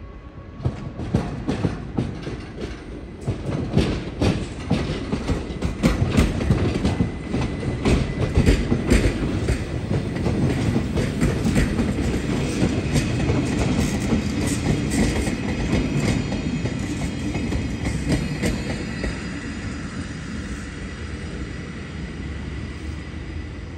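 Golden Pass panoramic train rolling along the station tracks: irregular clacks of its wheels over rail joints and points over a low rumble. The clacking is busiest in the first half, gives way to a steadier rumble with a faint high squeal, and eases off near the end.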